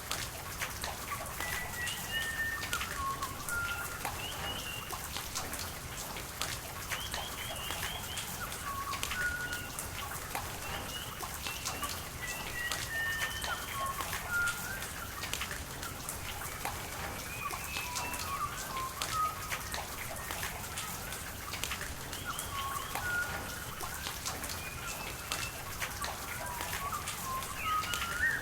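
Rain falling with many small drop ticks over a steady hiss of rain and running water, while birds call throughout with short chirps and whistles.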